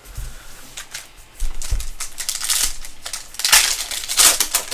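Trading-card pack wrappers crinkling and rustling as packs are opened and cards handled, a run of quick, uneven crackles and clicks, loudest about three and a half to four and a half seconds in.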